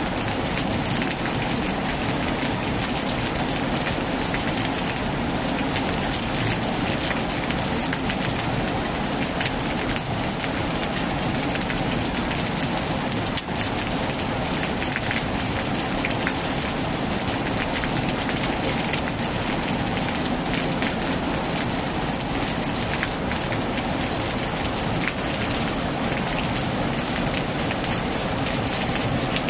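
Heavy rain falling steadily, a dense even patter of drops with no let-up.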